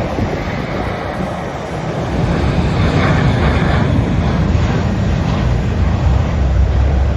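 Jet airliner engines giving a steady, loud, noisy rumble strongest in the low range, with wind buffeting the phone's microphone.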